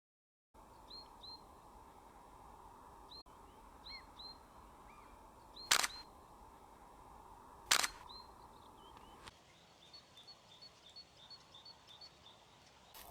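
Small birds chirping with short, high, hooked notes, and two sharp camera shutter clicks about two seconds apart near the middle. Later, one bird repeats a single short high note about three times a second for a couple of seconds.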